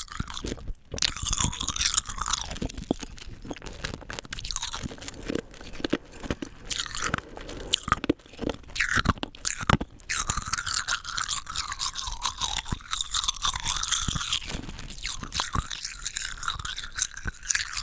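Close-miked crunching and chewing of rock candy: hard sugar crystals cracking between the teeth in dense, irregular crackles, with wet mouth sounds between bites.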